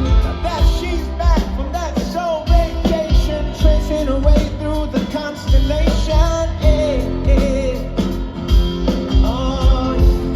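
Live rock band playing, with a steady drum beat under a sung vocal line that holds and bends long notes.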